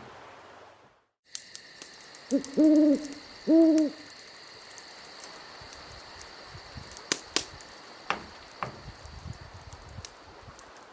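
An owl hooting: one short hoot and then two longer ones. Behind the hoots is a steady high-pitched ringing with faint ticking.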